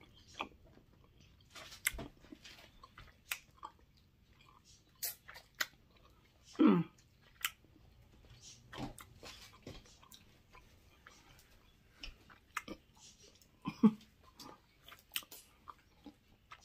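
A person chewing tender barbecue beef ribs with soft wet smacks and mouth clicks. Twice, about a third of the way in and again near the end, there is a short hum of approval.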